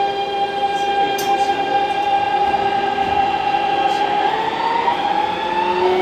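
Keikyu N1000 series train's 'Doremi' inverter accelerating from a stop, heard from inside the car. After its stepped musical scale it holds a steady whine, which begins to climb again near the end as new rising tones join it.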